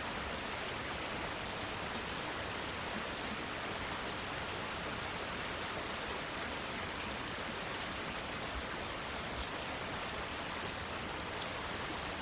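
Steady rain falling on plants and foliage, an even hiss with faint scattered drop ticks.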